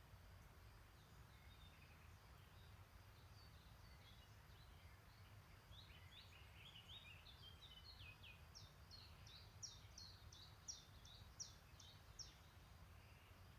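Faint birdsong. From about six seconds in, a songbird gives a rapid series of short downward-sliding notes that grow louder and higher toward the end, over scattered distant bird calls and a low steady rumble.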